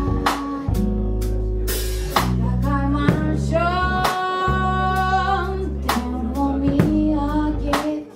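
A band playing: drum kit hits over steady bass and guitar, with a singer holding one long wavering note in the middle.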